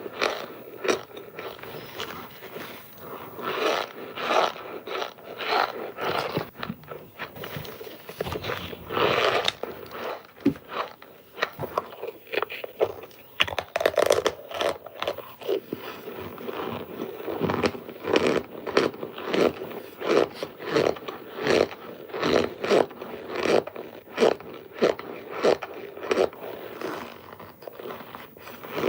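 Hard cornstarch bricks being crunched, a continuous run of dry, powdery crunches and scrapes, several a second.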